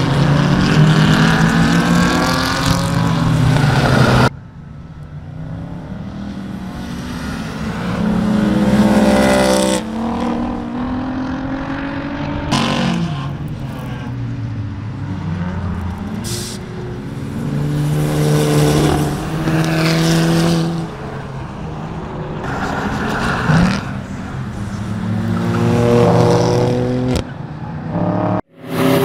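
Performance road cars running hard on a race circuit, one after another: each engine revs up and drops back at gear changes as the car passes. The run is broken into short clips, with abrupt cuts about four seconds in and again near the end.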